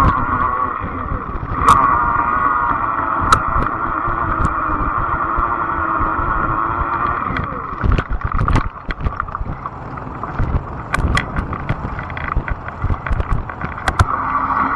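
Fat-tire e-bike in motion: a steady whine that drifts slightly in pitch as the speed changes. In the second half it is broken by a string of sharp knocks and rattles, as from riding over bumps.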